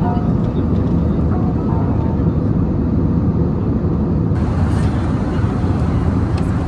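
Steady cabin noise of an Airbus A320 airliner in flight: an even, low rush of airflow and engine noise heard from inside the passenger cabin. The hiss brightens a little about four seconds in.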